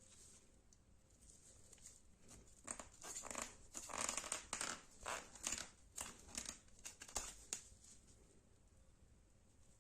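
Fixed-blade knife making a quick run of about a dozen short cutting strokes with a crackling, tearing sound, lasting about five seconds and starting a few seconds in.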